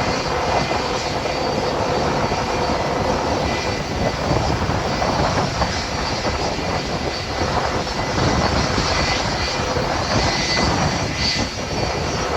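Steady jet noise from a Boeing 757-200 during pushback, with a faint steady whine over it.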